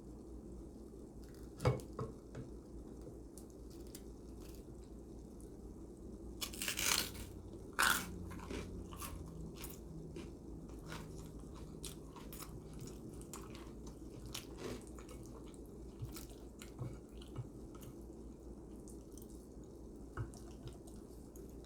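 Close-miked eating of manicotti: chewing, with a fork clicking and scraping against a plate in scattered short clicks, and two louder scrapes about seven and eight seconds in.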